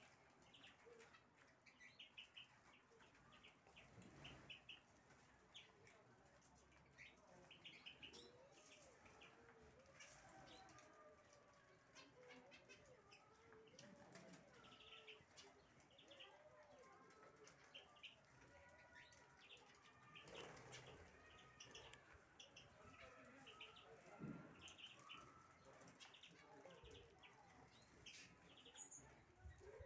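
Faint chirping of small cage birds: many short, quickly repeated chirps throughout, with occasional wing flapping.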